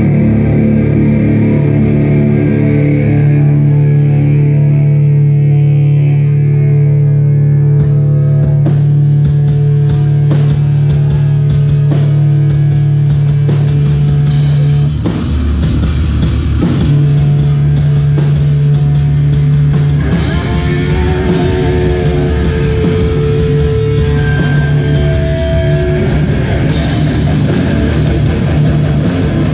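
Hardcore band playing live: loud, distorted electric guitars and bass hold heavy low chords. About eight seconds in, drums and cymbals come in and the full band plays on.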